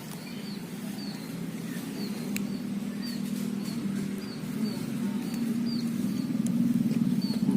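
A motor vehicle's engine hums steadily and grows louder as it draws near. A bird gives short high chirps over it, about twice a second.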